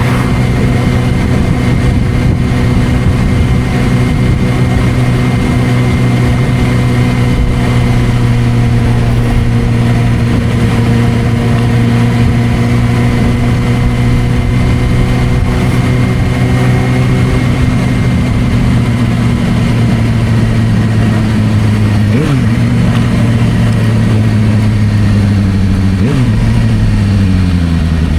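Suzuki GSR600 inline-four engine through an aftermarket Dominator exhaust, running at a steady speed, then slowing as the pitch falls gradually. Two quick rev blips come about two-thirds of the way in and again near the end.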